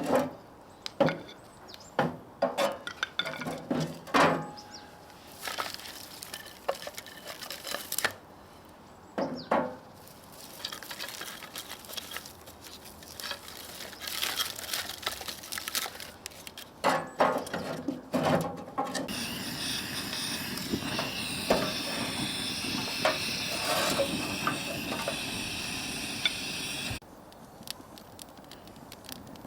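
Irregular clinks, knocks and clatters of pots, dishes and utensils being handled, followed for about eight seconds by a steady hiss that cuts off suddenly.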